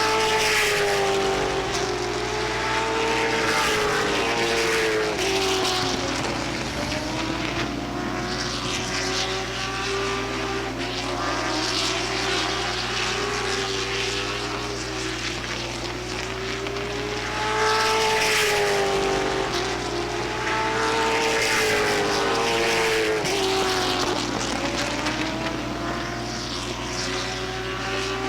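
Pack of late model stock cars' V8 engines at racing speed on a short oval track. The engine note climbs as the field comes by and falls away into the turns, in slow cycles of about fifteen seconds, one per lap, twice in a row.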